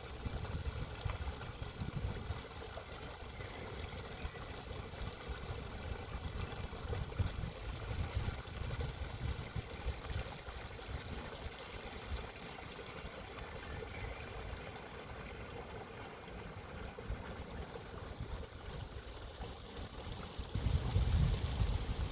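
Stream water running and trickling. A low rumble grows louder near the end.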